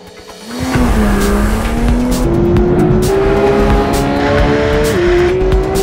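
Porsche 911 GT3 flat-six engine pulling away hard and accelerating, starting about half a second in. Its pitch climbs steadily, with one drop near the end, as it shifts up a gear.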